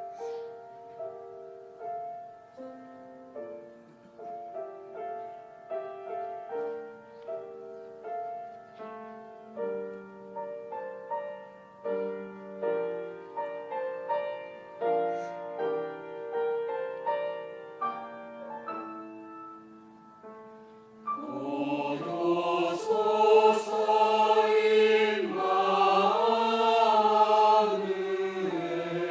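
Piano playing a slow introduction of held chords, then a choir comes in singing about 21 s in, much louder than the piano.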